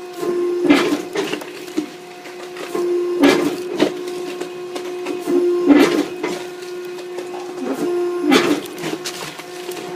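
Hydraulic firewood splitter running with a steady hum, with loud cracks of wood being split about every two and a half seconds, four times.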